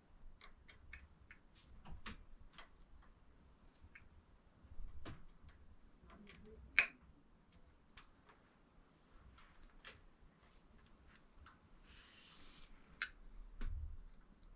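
Irregular small clicks and taps of hand tools and small metal parts being handled during bench work on a motorcycle throttle cable, the sharpest click about seven seconds in, with a brief soft hiss near the end.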